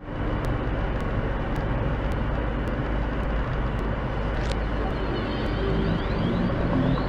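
Steady vehicle and road noise with a low hum, and a faint tick about twice a second.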